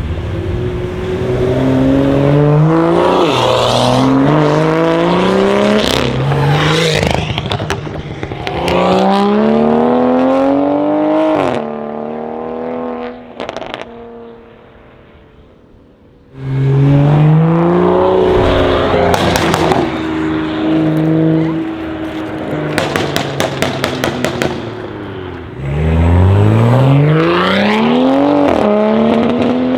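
A straight-piped BMW 335i's turbocharged 3.0-litre inline-six, on Stage 2 tune and Pure Turbos upgraded turbos, accelerates hard through the gears several times. The engine pitch climbs and then drops at each shift, and the exhaust crackles and pops in quick bursts between pulls. The sound dies down for a couple of seconds about halfway through, then a new loud run begins suddenly.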